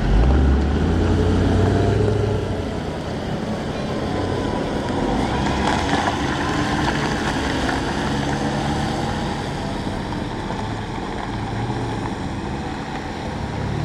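A large vehicle's engine running close by, loudest in the first two seconds, then steady vehicle and road noise.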